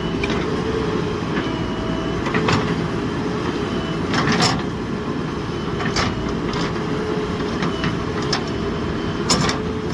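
JCB 3DX backhoe loader's diesel engine running steadily under load, with several sharp metallic clanks spread through it.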